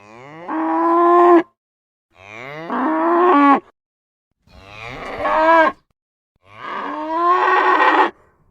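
Cattle mooing: four separate moos about two seconds apart, each sliding up in pitch at the start, growing louder, then cutting off sharply.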